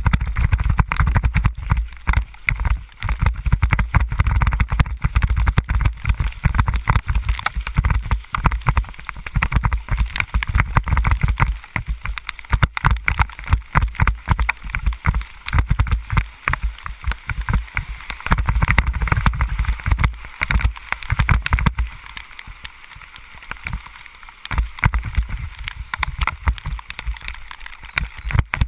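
Wind buffeting a moving microphone in the rain: an uneven low rumble with dense crackling and splashing, easing off for a few seconds about three-quarters of the way through.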